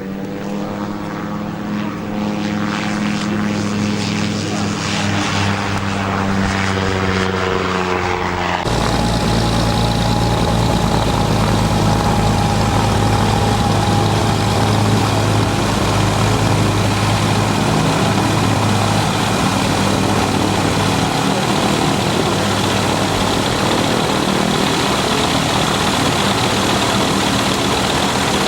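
Ultralight propeller aircraft's engine running, getting steadily louder over the first several seconds. About eight and a half seconds in, the sound changes abruptly to a louder, rougher, steady engine noise with a low drone that holds to the end.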